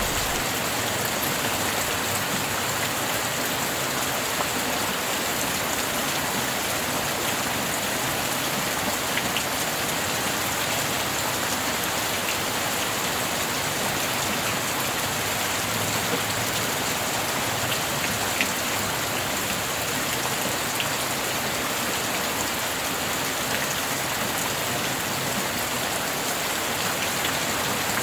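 Steady rain falling, an even dense hiss with a few faint drop ticks.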